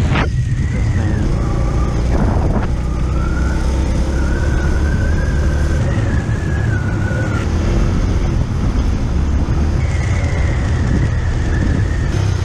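Motorcycle engine running under way with a steady low rumble of engine and wind noise, and a thin wavering high tone over it at times.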